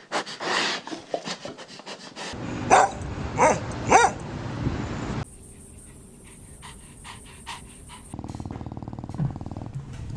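Small puppies barking, with three sharp, high yaps in quick succession near the middle, then softer scattered sounds.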